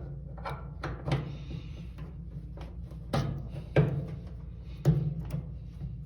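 Irregular sharp clicks and knocks of metal dryer parts being handled and fitted, over a steady low hum.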